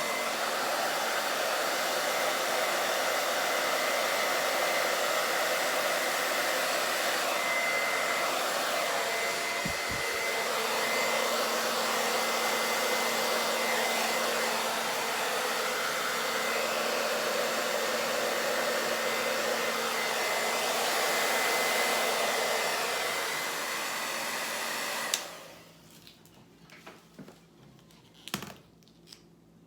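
Hair dryer blowing steadily with a thin whine, switched off abruptly near the end, followed by a few soft clicks.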